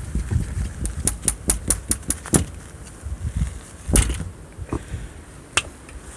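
A quick run of about eight sharp clicks, roughly five a second, then a single thump a little later and one more click near the end, over a low rumble.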